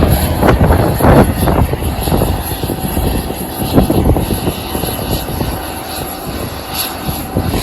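Airliner engines running, heard through strong gusty wind buffeting the microphone in irregular bursts.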